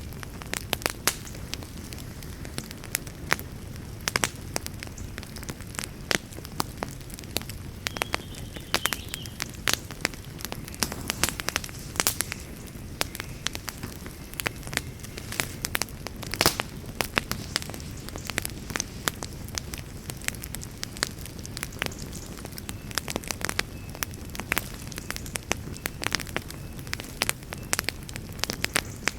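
Wood fire burning with a steady low rumble and irregular sharp crackles and pops, one pop standing out about halfway through.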